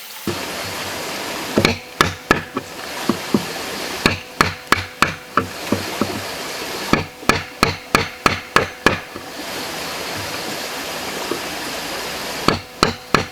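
Hammer blows on wood, in quick runs of several strikes about three to four a second with short pauses between runs, over a steady hiss.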